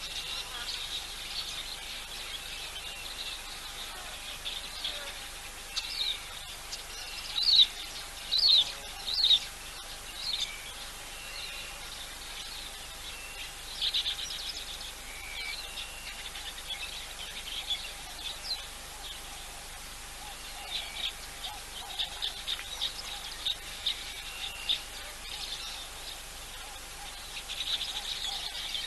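Small birds calling and chirping on and off, in short sharp notes, with the loudest run of calls about seven to ten seconds in, over a steady outdoor hiss.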